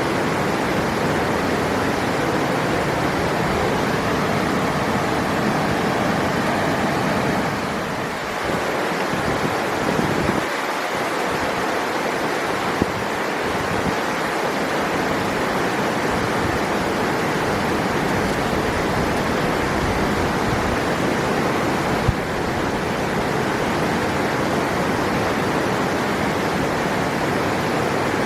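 River water rushing, a steady dense rush that eases slightly about eight seconds in. Two small clicks sound in the second half.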